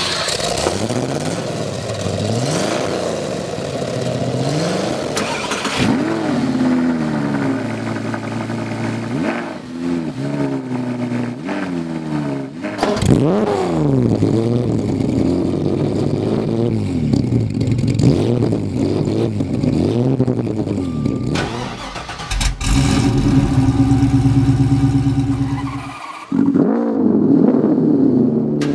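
High-performance car engines revved in turn, repeated throttle blips whose pitch climbs and falls quickly, with a few sudden cuts from one car to the next. Near the end an engine holds a steady, higher-revving drone.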